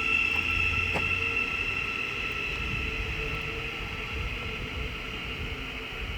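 Thameslink Class 700 electric train pulling out of the station, a steady high electric whine over a low rumble that slowly fades as it leaves.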